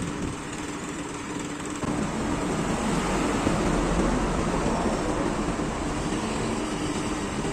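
Motor vehicle engine noise with road traffic, a steady hum that gets louder with a low rumble about two seconds in.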